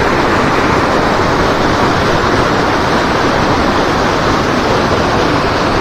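Loud, steady rush of river water flowing hard.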